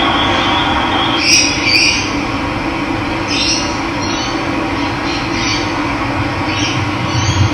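Running water with birds calling over it: short chirps about once a second. A thin, high, steady whistle fades out about a second in.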